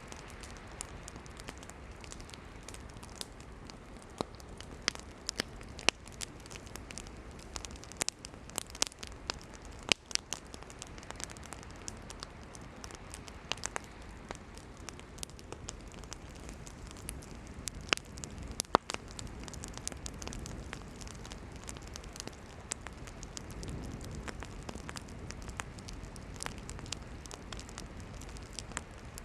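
Campfire of burning firewood crackling, with irregular sharp pops and snaps, a few of them much louder, over a low steady hiss of the flames.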